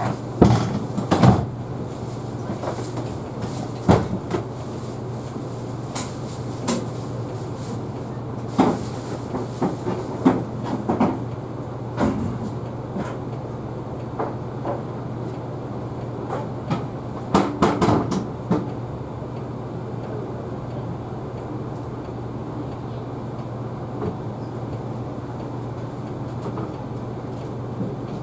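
Knocks and clatter of fittings being handled in the wheelchair space of a stopped city bus, in several clusters, most of them in the first half and a final burst about two-thirds of the way through. Under them runs the bus's steady low hum.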